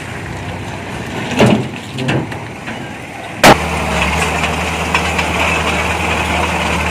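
Heavy diesel earthmoving machinery running, with a couple of knocks. A single sharp crack comes about halfway, after which a steady low diesel engine drone goes on.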